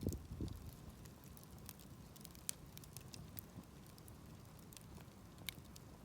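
Wood campfire crackling, with scattered sharp pops and a couple of low thumps in the first half second.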